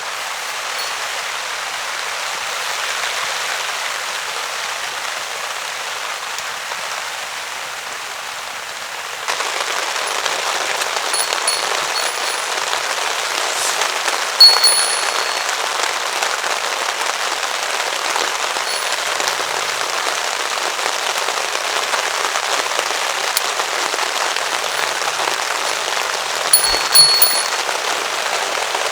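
Heavy rain falling steadily on a tarp, growing louder about nine seconds in. A sharp clink stands out around the middle and again near the end.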